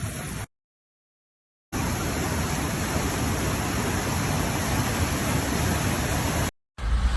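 Steady rushing noise of water, with no distinct drops or pitch. It breaks off twice into dead silence, once for about a second near the start and again briefly near the end, where clips are joined.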